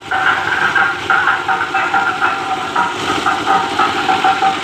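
Dhak drum rhythm played loud through a DJ sound system's loudspeakers, a fast, even beat with a harsh, thin tone.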